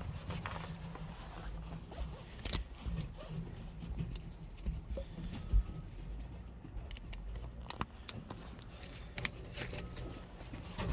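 Scattered light metallic clicks and rattles of hand tools working at a door handle's fasteners and linkage inside a minivan door, with a few sharper clicks spread through, over a low steady rumble.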